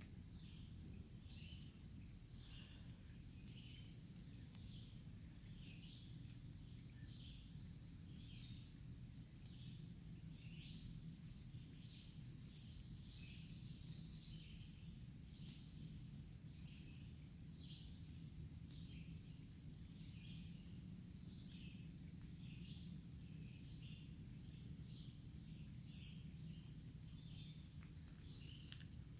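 Insects calling faintly: a steady high-pitched trill with short chirps repeating about once a second, over a low background rumble.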